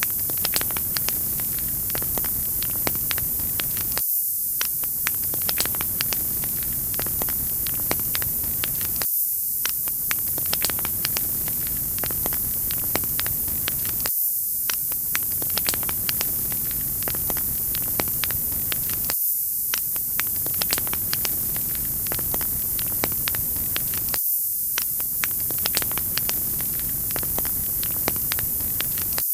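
Wood fire crackling, with many sharp pops and snaps over a steady hiss. The same few seconds of sound repeat about every five seconds.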